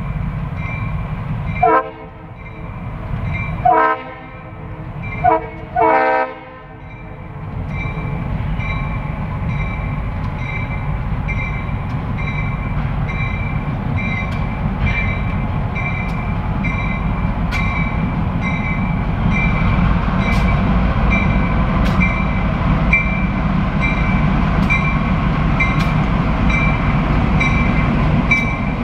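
Diesel locomotive horn sounding the long, long, short, long grade-crossing signal in the first seven seconds, over a bell ringing steadily. Then the locomotive's engine rumble and the wheels on the rails grow louder as the train comes closer, with regular clicks in the second half.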